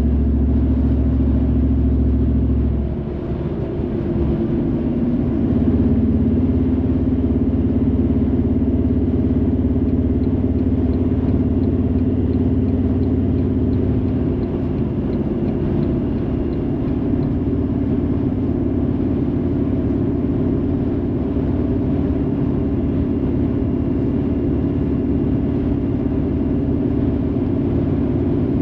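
A car being driven: steady engine and road noise. The engine note shifts about three seconds in, with a brief dip in level, then settles again.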